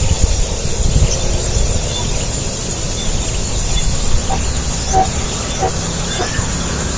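Steady low rumble and hiss, with scattered short, high bird chirps.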